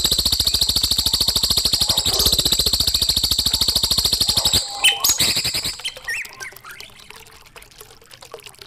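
Songbird singing a fast, buzzy, high trill for about four and a half seconds, then a few short chirps, after which it is quieter.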